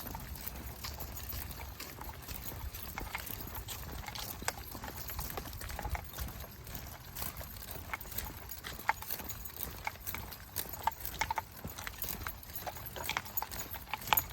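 Footsteps of a person and a pack of dogs on a trail: many irregular steps over a steady low rumble.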